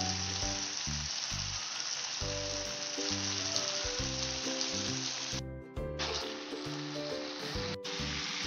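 Chicken curry with potatoes sizzling steadily in oil in a frying pan, with a brief break in the sizzle about five and a half seconds in. Background music of low notes plays underneath.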